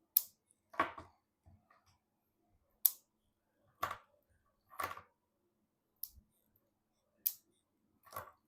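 Sharp snaps and clicks mixed with duller handling knocks, each brief and a second or so apart, from PC parts or cables being handled during assembly.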